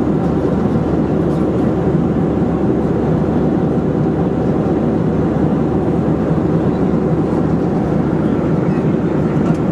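Boeing 737-400 cabin noise at cruise: a steady, loud rush of airflow and the engines' drone, unchanging throughout.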